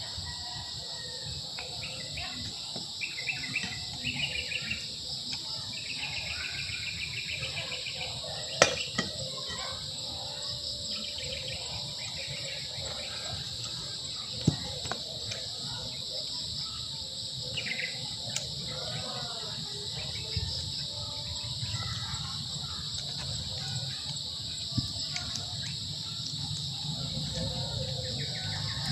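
Steady high-pitched drone of crickets and other insects, with birds calling in short repeated trills, mostly in the first third. A few sharp clicks or knocks break through now and then.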